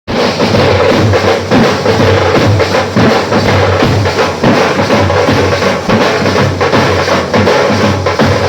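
Live drum band playing a loud, fast, dense beat of many drum strikes.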